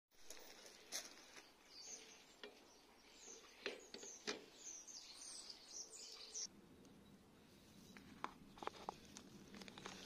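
Faint chirping of small garden birds: a run of short, high notes from about two to six and a half seconds in. Scattered light clicks and knocks.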